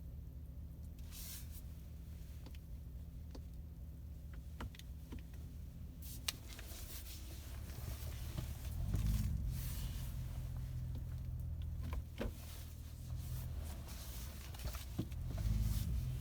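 A pickup truck's engine idling steadily, with scattered clicks and short rustling noises over it.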